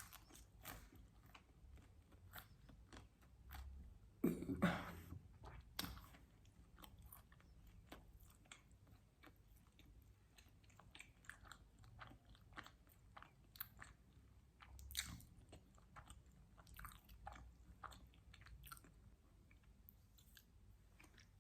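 Close-miked chewing of pizza: a steady run of small wet mouth clicks and crunches, with a louder bite into the crust about four seconds in.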